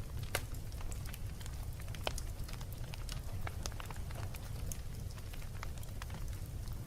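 Wood fire burning in a fireplace: irregular sharp crackles and pops from the burning logs over a steady low rumble.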